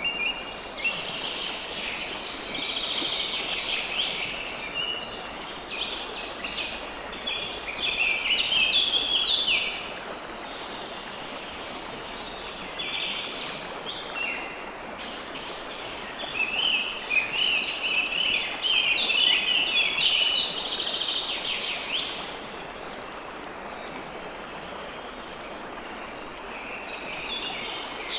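Songbirds singing in spells of quick, chirping phrases over the steady rush of flowing water, with quieter gaps where only the water is heard.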